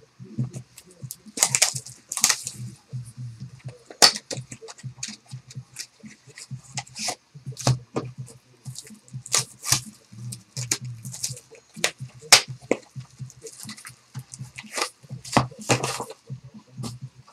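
Sealed trading-card boxes being unwrapped and opened by hand: plastic shrink wrap crackling, with irregular sharp clicks and taps of cardboard.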